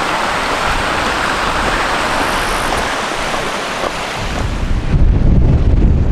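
Strong wind rushing past, a steady hiss for the first few seconds, then gusts buffeting the microphone with a low rumble from about four and a half seconds in.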